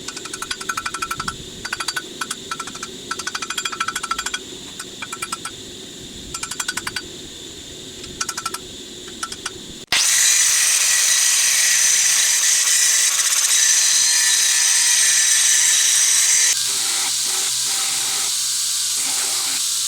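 Power hammer forging hot steel: short bursts of rapid blows with a metallic ring. About halfway through, this gives way abruptly to a loud steady hiss, which drops a little in level near the end.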